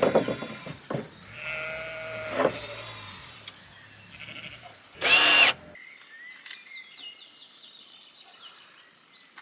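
Cordless drill-driver running screws into cladding boards: a short steady whir about a second and a half in, then a louder, brief burst about five seconds in. Crickets chirp steadily underneath.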